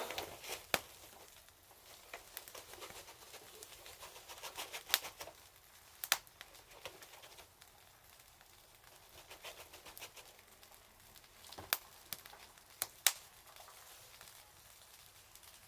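Wood fire crackling, with sharp single pops every few seconds over a faint hiss.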